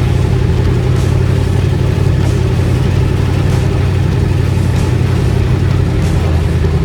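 Turbocharged LS V8 of a Chevy S10 pickup running at a steady cruise under way, a low, even drone with road and air noise over it.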